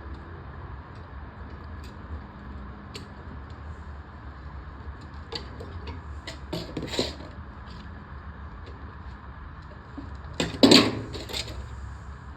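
Hand-work on a lawnmower's fuel line and carburetor: scattered small clicks and knocks of parts and tools being handled, with a brief louder clatter about ten and a half seconds in, over a steady low hum.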